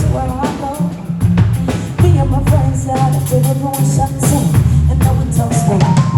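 A live band playing: a voice singing a melody over a bass line and a drum kit.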